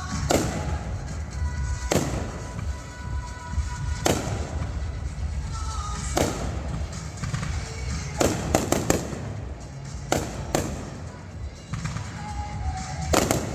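Fireworks going off: sharp bangs about every two seconds, then a quick run of four, followed by a few more spaced bangs.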